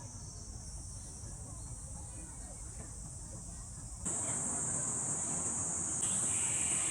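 Steady high-pitched chorus of insects trilling without pause. About four seconds in it abruptly gets louder, with a rushing noise added underneath.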